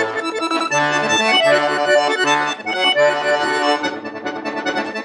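Accordion playing: held bass notes and chords on the left hand under a busy treble melody, with no break.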